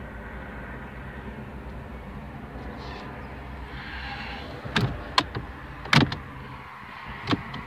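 A few sharp clicks and knocks from parts of a parked car's interior being handled, the loudest about six seconds in, over a steady low hum.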